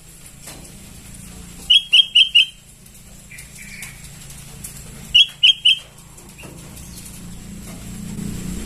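Young sooty-headed bulbul calling: two quick series of short, loud chirps, first four and then three. A low rumble grows in underneath near the end.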